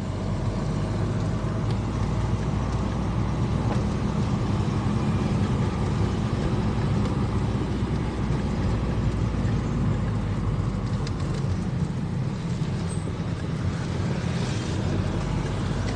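A car driving along at a steady speed: a low, even engine and road rumble.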